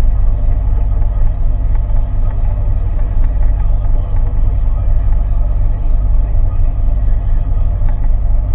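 A boat's engine running steadily under way: a constant low drone with no change in speed.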